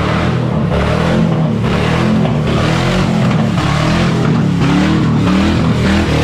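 Ford Crown Victoria V8 running loud and steady with a slightly wavering pitch, freshly revived after popcorn kernels sucked into the intake had left it with no compression.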